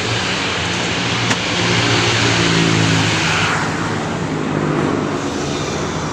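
A road vehicle passing close by: engine and tyre noise swells, then falls away about three and a half seconds in.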